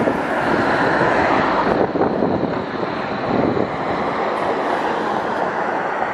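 Wind rushing over the microphone and road noise while riding an e-bike, a steady loud rush with a faint high steady tone through most of it.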